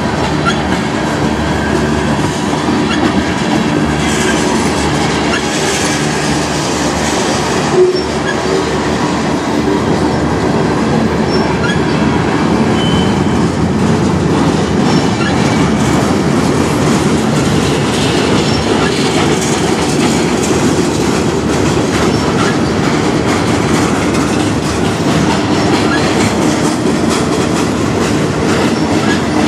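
Freight cars of a manifest train rolling past: a steady rumble with rapid wheel clicks over the rail joints, and one louder clank about eight seconds in.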